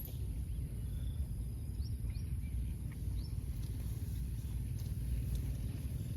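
Outdoor ambience: a steady low rumble, a constant high insect drone, and a few faint short rising bird chirps scattered through.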